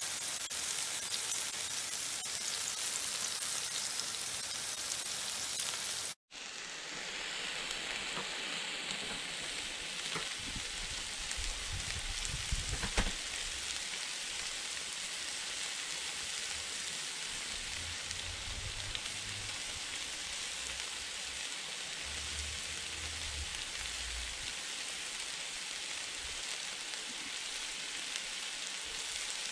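Steak strips and sliced bell peppers frying on a Blackstone flat-top griddle, a steady sizzling hiss. The sound drops out for a moment about six seconds in, then the sizzle resumes.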